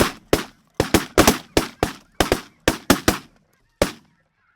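A rapid volley of about fourteen shotgun shots from several hunters firing together at decoying snow geese, some shots nearly overlapping, stopping near the end.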